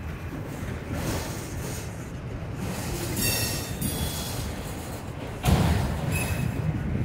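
Norfolk Southern freight train rolling past, a steady rumble of wheels on rail with a brief high-pitched wheel squeal about three seconds in. About five and a half seconds in, the rumble suddenly gets louder.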